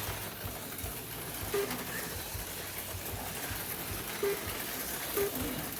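AFX Mega G and Mega G Plus HO slot cars racing on a plastic track: a steady rattling buzz of several small motors and tyres, with light clicks and knocks.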